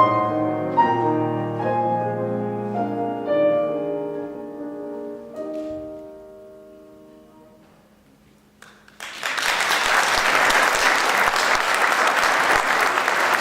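Piano plays the closing bars, ending on a chord that dies away to near silence; about nine seconds in, audience applause breaks out and carries on.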